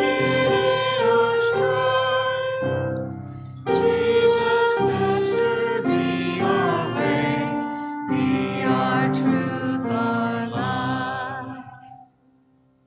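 Church choir singing with instrumental accompaniment, in phrases of held chords; the music dies away about a second before the end.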